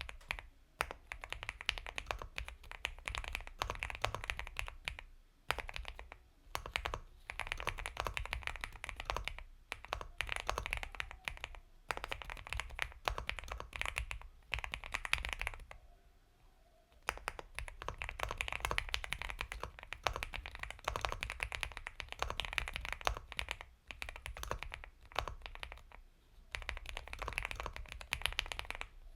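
Fast, continuous typing on an Epomaker x Feker Galaxy 80 mechanical keyboard with Gateron Milky Yellow Pro linear switches, soft rapid keystrokes in runs broken by short pauses, with a longer pause about halfway through.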